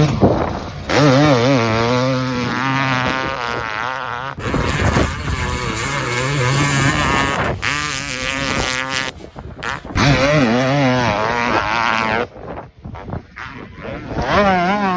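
Two-stroke motocross bike engines buzzing as the riders blip the throttle on and off, the pitch rising and falling over and over. The sound changes abruptly a few times as one clip gives way to the next.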